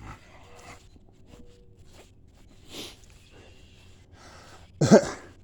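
Low background noise, then, just before the end, a single short, loud burst of breath and voice from the man.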